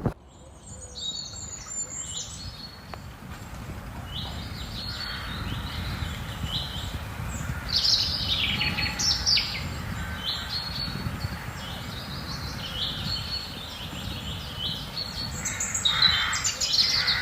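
Songbirds singing: short chirping phrases repeated again and again, some with quick falling notes, over a low steady background rumble.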